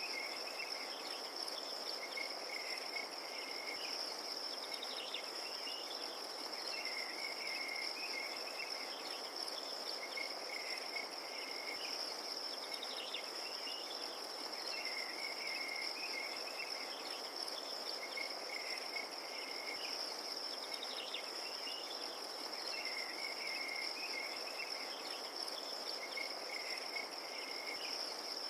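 Crickets trilling in one steady, unbroken high note over a soft even hiss, with short chirping calls recurring every few seconds.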